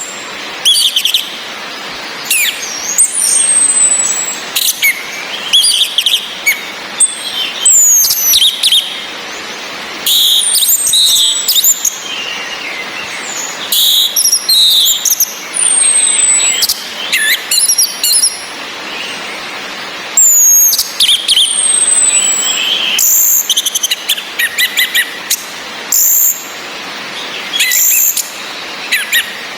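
Orange-headed thrush calls and song: repeated high, thin whistles gliding downward, mixed with clusters of quick chirps every second or two, over a steady rain hiss. The sounds are a female's calling whistles played as a lure to prompt a caged male to sing.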